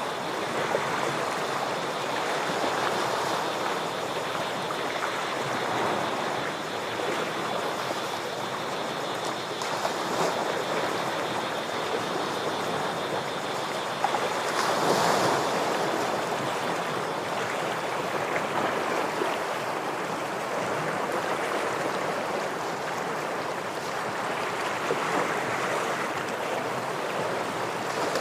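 Ocean surf washing against rocks: a continuous rush that swells and eases, with a bigger wave surging about halfway through.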